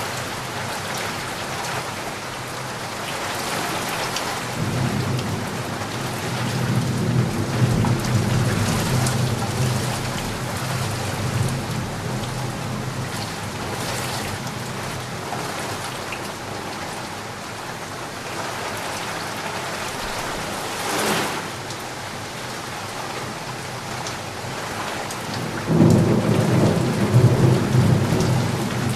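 Heavy rain pouring steadily, with thunder rumbling low for several seconds from about five seconds in and again, louder, near the end.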